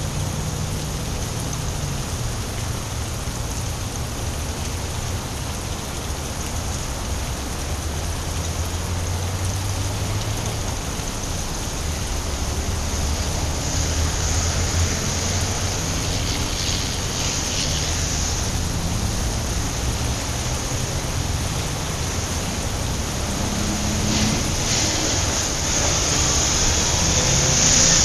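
Steady rain on a wet city street with a low rumble of traffic. The hiss swells twice, around the middle and again near the end, as cars pass on the wet road.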